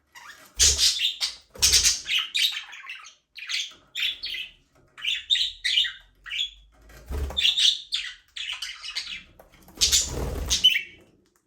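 Budgerigars chirping and chattering in quick, overlapping short calls, with a few louder bursts, the longest near the end.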